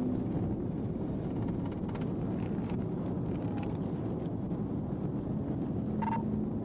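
A steady low rumble of vehicle engine and motion noise, with a short high tone about six seconds in.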